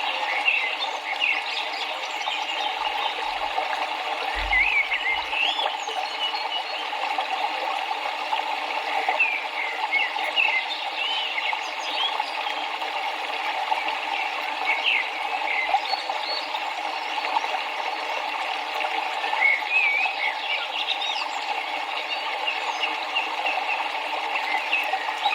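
River water running steadily, with small birds chirping in short, scattered calls over it.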